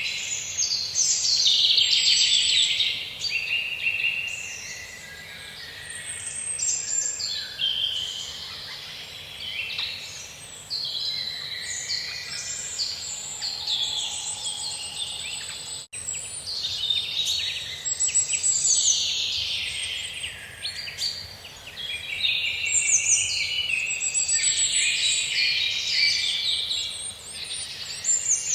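A forest chorus of many songbirds singing at once, with quick overlapping chirps, trills and whistles. The chorus cuts out for an instant about halfway through.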